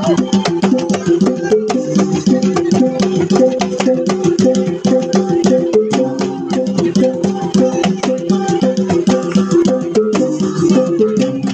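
Sumbanese gong ensemble playing: several tuned gongs struck in a fast, repeating interlocking pattern, with sharp percussive strokes over them throughout.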